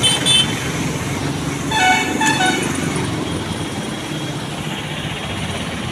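Vehicle horn honking: two quick toots at the start, then a longer honk broken into a few toots about two seconds in, over steady road-traffic noise.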